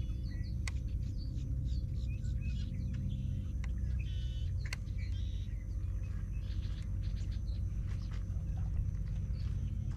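Wild birds chirping and calling in short, scattered notes, over a steady low rumble and a faint steady hum. Two sharp clicks, about a second in and near the middle.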